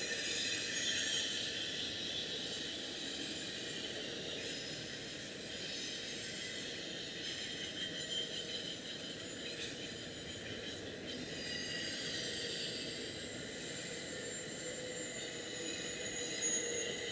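BNSF intermodal freight train's double-stack and trailer flatcars rolling past, steel wheels running steadily on the rails with high-pitched steady wheel squeal on the curve.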